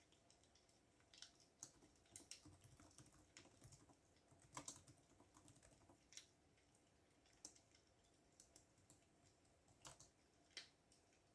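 Faint typing on a computer keyboard: irregular runs of key clicks with a few louder keystrokes, busiest in the first half and thinning to scattered single clicks later.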